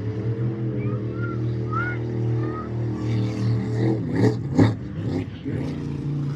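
Monster truck engine running hard at steady high revs, with two loud bangs a little after four seconds in, then running on.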